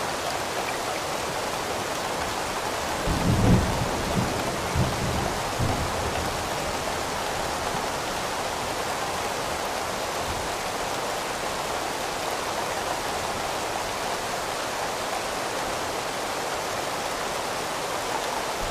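Steady heavy rain, with a low roll of thunder rumbling about three seconds in for a few seconds, and another starting right at the end.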